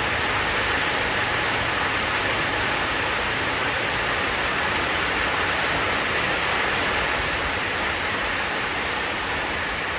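Heavy rain pouring down in a steady, even rush with no breaks.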